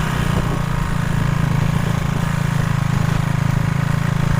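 Motorcycle engine running steadily as the bike is ridden, an even low hum with no change in pitch.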